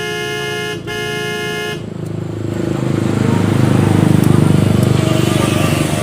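A vehicle horn held in a long steady blast, with a brief break about a second in, cuts off about two seconds in. Then a passing motor vehicle's engine rumble swells, loudest around four seconds in, and eases away.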